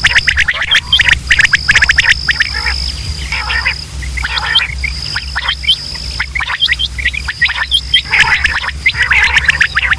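Quail calling, many birds over one another in a dense chorus of rapid chattering notes and short hooked calls, with a steady high tone running through much of it and a low hum underneath.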